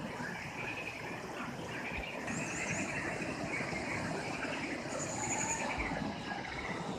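Birds chirping repeatedly, with a high short trill twice, over a steady background noise.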